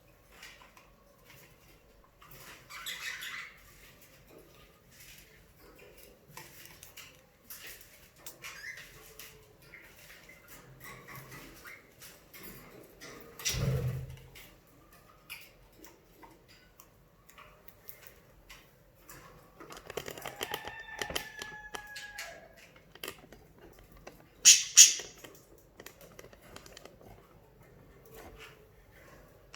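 Budgerigars chirping, with many small scattered clicks and scrabbling. There is a dull thump about halfway through, a longer whistled call about two-thirds of the way in, and a loud sharp sound a few seconds later.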